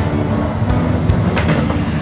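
Diesel passenger railcar running past at close range, its engine sounding as a steady low drone over the rumble of the wheels on the rails, with a few sharp clicks as the wheels cross rail joints in the second half.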